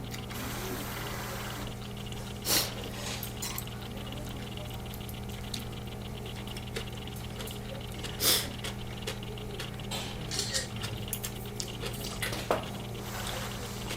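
Table sounds of eating: chopsticks and a spoon clinking against the dishes, with three short louder noises spread through, over a steady low hum.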